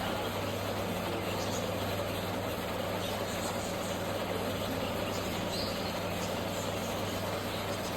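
A steady low hum with an even background hiss, like an engine or machine running; no francolin call is heard.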